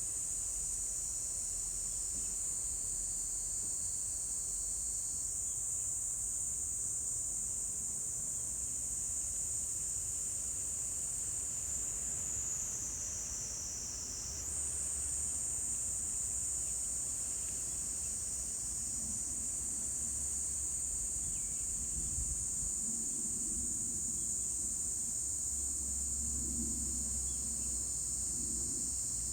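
Insects singing in a steady, high-pitched continuous chorus. About halfway through it drops slightly lower and softer for a couple of seconds, then comes straight back.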